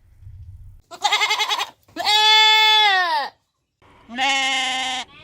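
Three loud pitched animal calls: a short quavering one about a second in, a long one that drops in pitch at its end, and a shorter steady one near the end.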